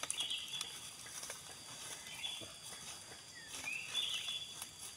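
A bird calling repeatedly outdoors, short rising calls every second or two. Under it are faint rustles and crackles of fresh leaves and dry fronds being handled.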